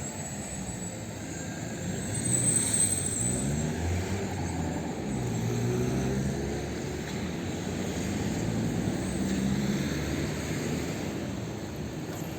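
A low engine drone whose pitch wavers up and down, swelling about two seconds in and again near the end.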